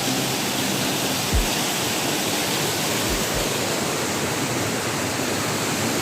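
Waterfall: a steady rush of falling water, with a few brief low thumps about one and a half and three seconds in.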